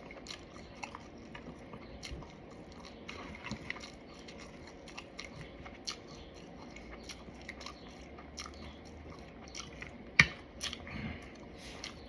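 A person chewing and biting fried food close to the microphone, with many small crunches and mouth clicks and one sharper click about ten seconds in.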